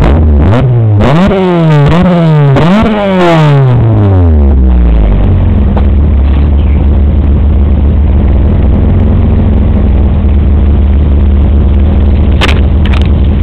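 Honda Prelude drag car's engine revved up and down four times in quick succession, then dropping back to a steady idle about five seconds in. It is very loud and recorded through a poor camera microphone.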